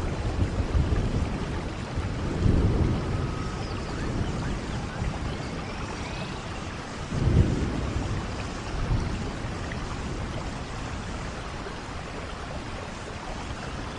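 Steady rain with low rumbles of thunder, the strongest about seven seconds in.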